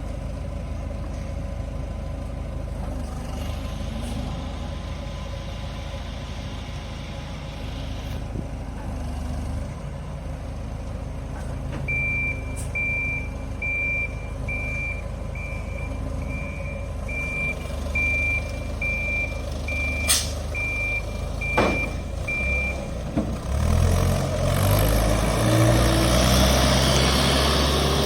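A farm machine's diesel engine running steadily while its reversing alarm beeps about once a second for some ten seconds. A couple of sharp knocks follow, and near the end the engine revs up and gets louder.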